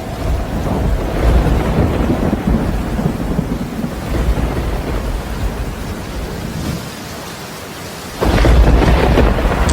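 Rain falling with rumbling thunder. A louder thunder rumble breaks in suddenly about eight seconds in.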